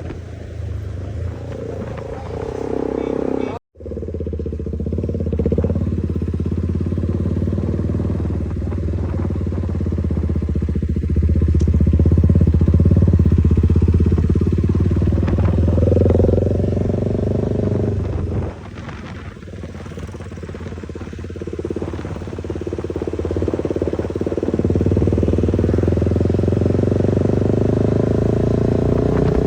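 Motorcycle engine running under way, its note rising and falling with the throttle and louder in stretches. The sound cuts out for an instant about four seconds in.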